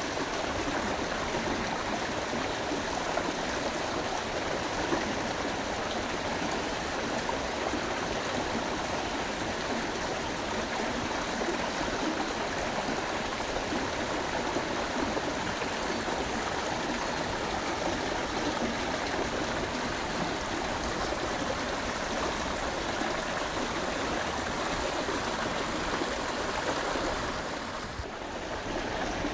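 Steady rush of flowing stream water, dipping briefly near the end.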